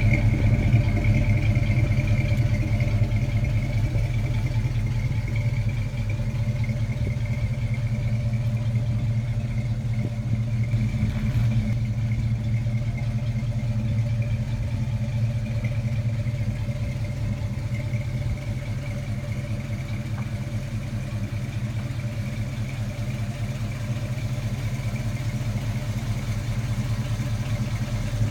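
1972 Chevrolet K10's 350 V8 with dual exhaust idling steadily, with no revving.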